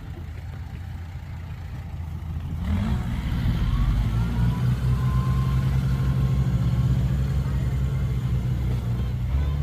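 A vehicle engine running with a steady low hum that grows louder about three seconds in.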